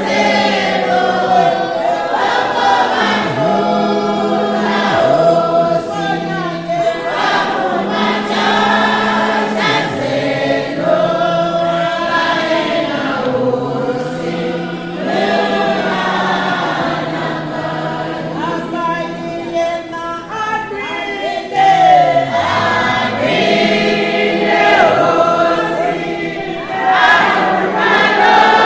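A choir singing a gospel song, several voices holding long notes together.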